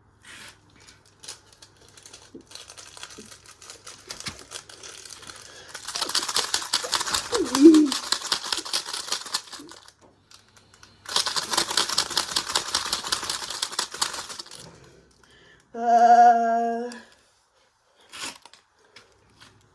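A toy washing machine running with objects rattling inside it: two long spells of fast clattering clicks, then a brief steady tone near the end.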